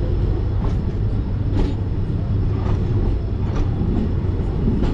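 Express passenger train running on the track: a steady low rumble of the coaches with a sharp click roughly once a second.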